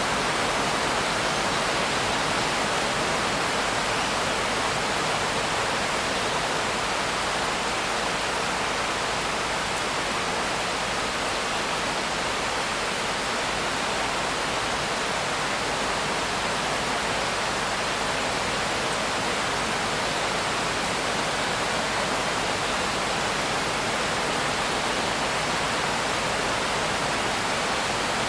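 Steady, dense rainfall: an even hiss with no separate drops standing out.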